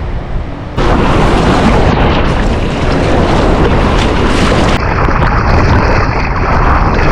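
Loud rushing noise of surf water and wind buffeting a body-mounted camera's microphone, starting suddenly about a second in and holding steady.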